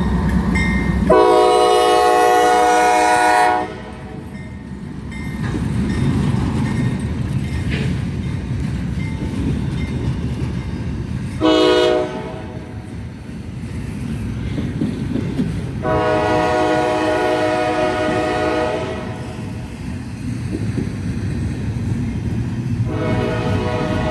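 Diesel locomotive's air horn sounding a chord in separate blasts: a long one just after the start, a short one near the middle, another long one, and a fourth starting near the end, over the steady rumble and wheel clatter of the passing train.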